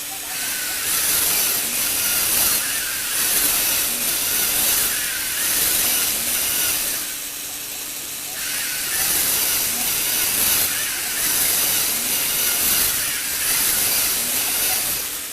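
Small electric motor and plastic gears of a Lego Technic lifter running with a grinding whine. The sound swells and fades in repeated stretches of a second or two.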